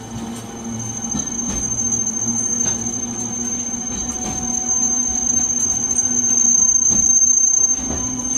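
Nagasaki Electric Tramway 370-series tram running, its wheels squealing on the rails in a steady high-pitched tone from about a second in, growing louder near the end, over the low rumble of the car, with occasional sharp clicks.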